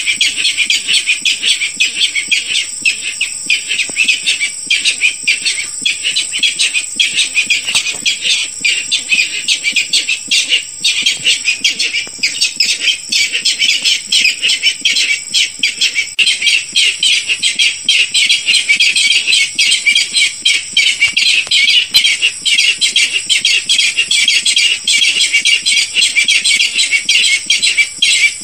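Barred rail calls in a looped bird-lure recording used to call rails in for hunting: a dense, continuous run of rapid, high-pitched calls.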